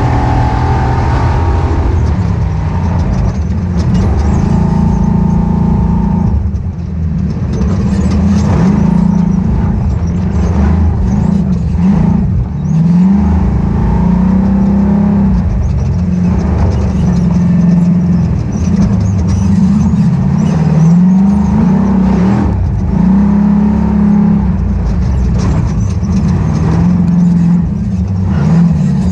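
Ultra4 off-road race car engine running hard, its pitch repeatedly climbing and dropping back as it revs and eases off. Frequent knocks and rattles run through it.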